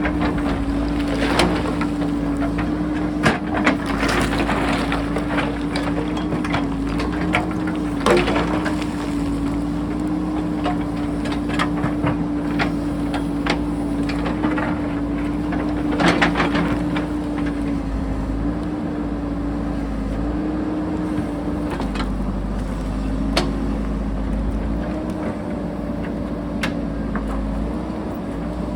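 JCB backhoe loader's diesel engine running steadily under load while it digs, with scattered sharp knocks and clatter of rock struck and moved by the bucket.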